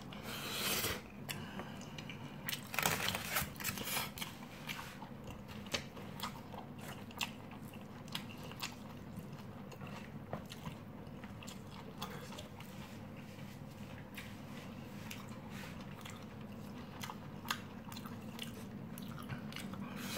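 A person chewing mouthfuls of fried rice close to the microphone, with small irregular clicks and scrapes from a plastic spoon in a styrofoam takeaway box, busiest in the first few seconds. A steady low hum runs underneath.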